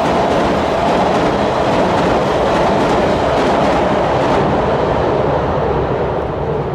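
A train crossing a railway bridge: a loud, steady rumble of wheels on rails with rapid clicking clatter, easing a little near the end.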